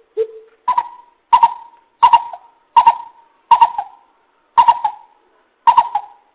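Coucal (bìm bịp) calling: a series of about eight deep hooting notes, roughly one every 0.7 s, the first lower and the rest stepped up to a higher pitch.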